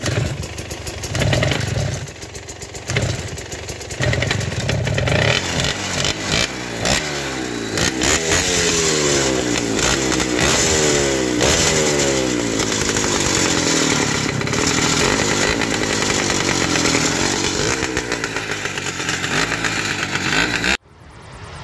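Small petrol engine of a kids' motorised kart running, choppy for the first few seconds, then revving up and down again and again. It cuts off abruptly near the end.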